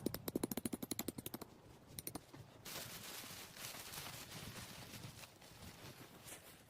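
A fast run of clicks, about ten a second, for about a second and a half, a couple more clicks, then steady rustling.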